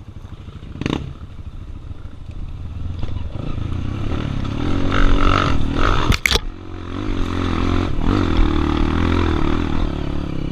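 Single-cylinder four-stroke trail motorcycle engines running and revving unevenly, the pitch rising and falling, with a short clack about a second in and a sharp knock about six seconds in.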